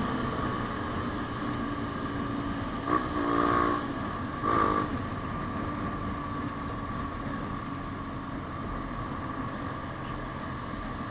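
Yamaha Sniper 150's single-cylinder four-stroke engine running through an aftermarket JVT exhaust while riding, with two short louder bursts about three and four and a half seconds in, then settling a little quieter.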